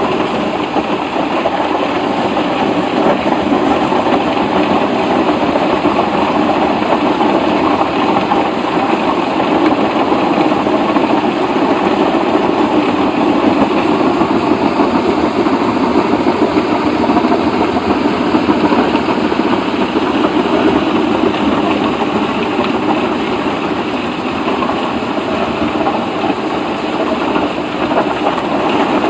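A heavy machine's engine running steadily, a loud, unbroken mechanical din.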